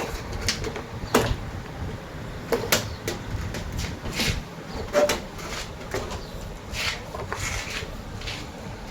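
Irregular knocks, clicks and clatter, about one or two a second, of tools and parts being handled while a front-load washing machine is taken apart.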